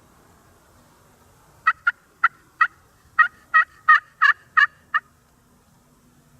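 Turkey calling: a run of about eleven short, sharp yelp-like notes, roughly three a second, lasting about three seconds and starting a couple of seconds in.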